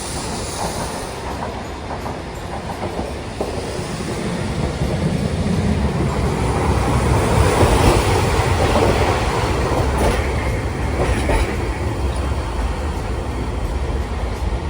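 Hiroshima Electric Railway streetcar running along street track, growing louder to a peak about halfway through and easing a little after, with a few wheel clicks about two-thirds through.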